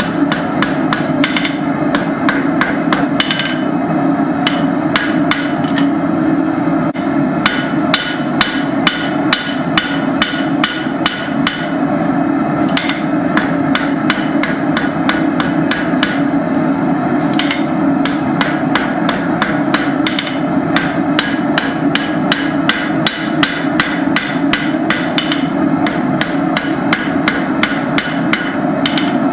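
Hand hammer striking hot steel on an anvil while forging a hook: runs of sharp ringing blows, about three a second, with a few short pauses. A steady hum lies underneath.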